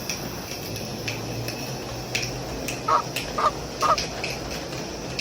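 A bird calling, three short harsh calls in quick succession about three to four seconds in.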